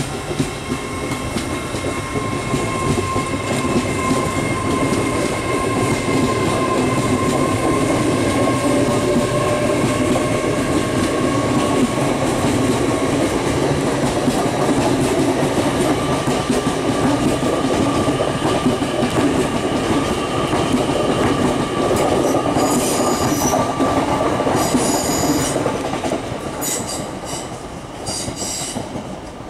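GWR Class 800 train running past: a steady rumble of wheels on rail with a constant whine from the train. In the last several seconds there are a number of short, high-pitched wheel squeals as the sound begins to fade.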